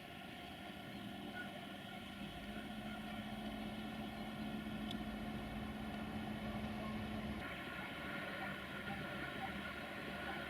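A train standing with its machinery running: a steady mechanical hum made of several steady tones. A low hum grows stronger about two and a half seconds in and eases off again about seven and a half seconds in.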